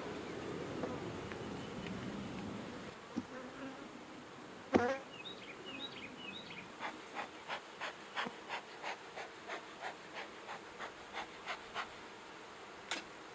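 Honeybees buzzing steadily around an opened Langstroth hive. About five seconds in there is one loud short sound, and from about seven to twelve seconds a quick run of short sharp sounds, about three a second.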